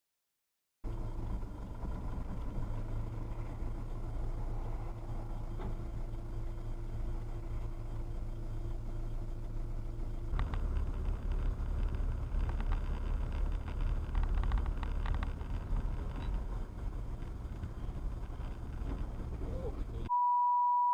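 Car driving, heard from a dashboard camera: a steady low rumble of road and engine noise with scattered light clicks, growing louder and rougher about halfway through. Near the end it gives way to a short, steady high-pitched beep.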